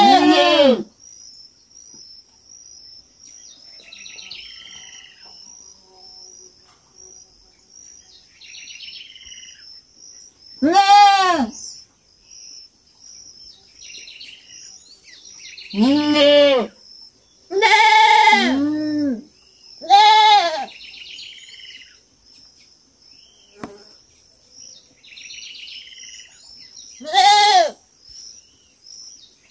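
Young goat (kid) bleating: about seven loud, short calls at irregular intervals, each rising and then falling in pitch. Several come close together in the middle.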